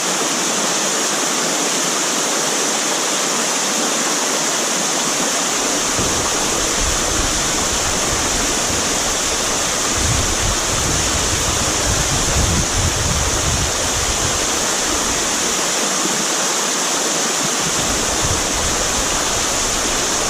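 Steady rushing of a small waterfall, a dense even hiss of falling water. From about six seconds in there is intermittent low buffeting on the microphone.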